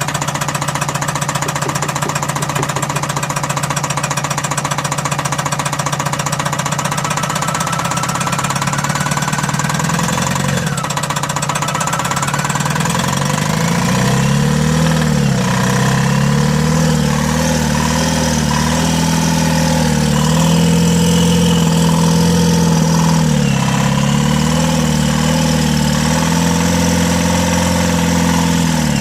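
Two-cylinder DICOR diesel engine of a Tata Mega XL with a failed turbocharger running: idling, then revved up about ten seconds in and dipping and rising in revs several times, with a steady whine above the engine note.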